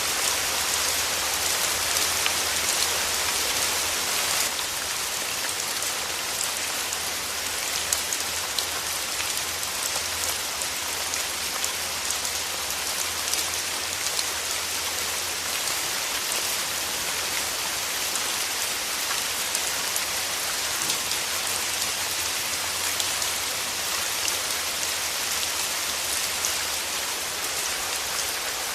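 Steady rain falling and pattering on surfaces, a dense hiss with many fine drop ticks, easing slightly about four seconds in.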